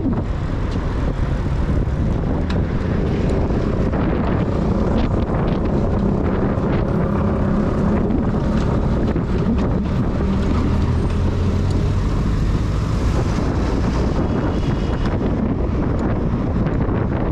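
Wind buffeting the microphone of a camera on a moving bicycle, mixed with street traffic; a motor vehicle's engine hum stands out for a few seconds in the middle.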